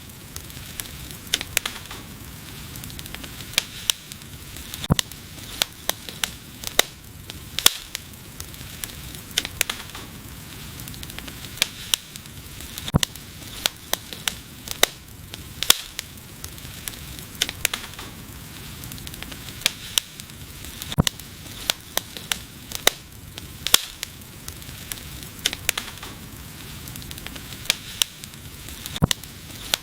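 Wood fire burning: frequent sharp, irregular crackles and pops over a steady low hiss of the flames.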